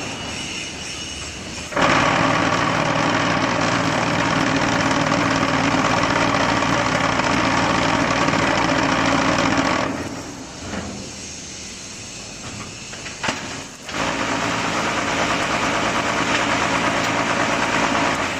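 Concrete block-making machine running, with loud steady noise in two long stretches, about eight seconds and then about five, and a quieter machine hum between them. A short knock sounds just before the second stretch.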